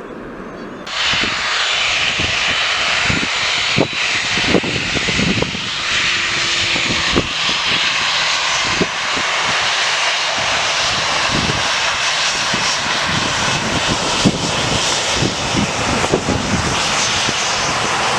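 Jet airliner's engines running loud as the aircraft passes close: a dense, steady rush that comes in abruptly about a second in, with short low thumps running through it.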